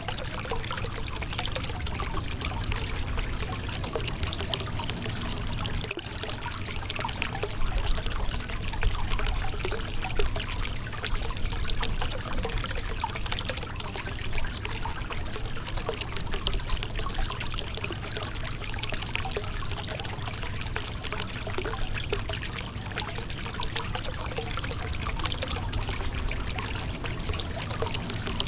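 Shallow river water flowing and trickling over a rocky bed: a steady babble of small splashes and gurgles with no pause.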